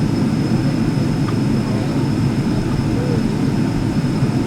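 Steady cabin noise inside a jet airliner taxiing after landing: a low, even rumble of the engines and cabin air system, with a faint steady high whine.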